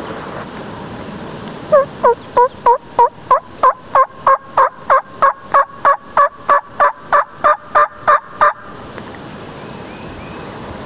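A long, even series of turkey yelps, about twenty loud notes at roughly three a second, which stops abruptly after about six seconds.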